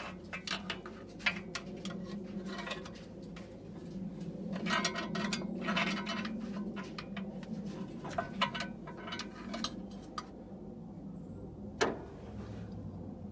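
Scattered light metallic clinks and knocks as the V8 engine and gearbox are shifted and lined up, over a low steady hum, with one sharper knock near the end.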